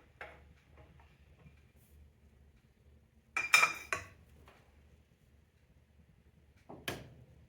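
Steel hand tools clanking as a breaker bar with a jack-handle cheater bar is worked on the crank bolt of a seized engine. A few light clinks come near the start, a loud metallic clatter that rings briefly comes about halfway, and one more clank comes near the end.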